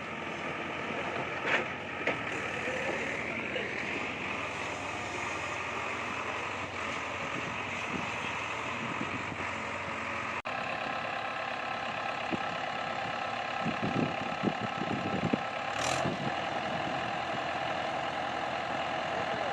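Mahindra 575 DI tractor's diesel engine running steadily, with a few short knocks. The sound changes abruptly about ten and a half seconds in.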